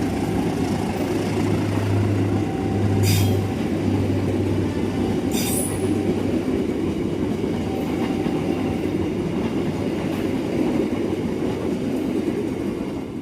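Train running past on the track: a steady loud rumble of wheels on rail, with a low hum that fades about six seconds in and two short, sharp metallic sounds a couple of seconds apart near the middle.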